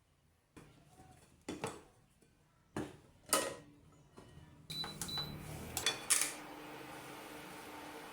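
Household objects being handled, with several sharp clicks and clatters, then a steady hiss that starts about halfway through and keeps going.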